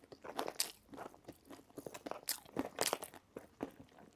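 A person chewing a crunchy snack close to the microphone: irregular crisp crunches, several to a second.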